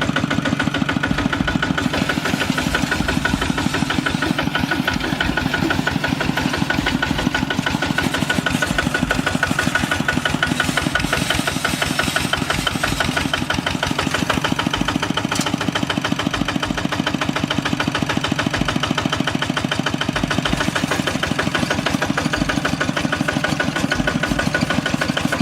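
Kubota RT hand tractor's single-cylinder diesel engine running steadily with a fast, even chugging beat.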